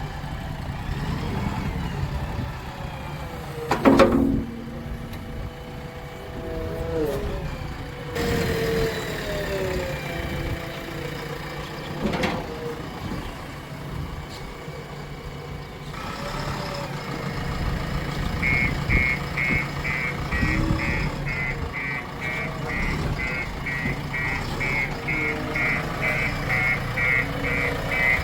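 Diesel engine of a JCB 3DX backhoe loader working, its pitch rising and falling, with a loud knock about four seconds in. Later a reversing alarm starts beeping steadily, about twice a second.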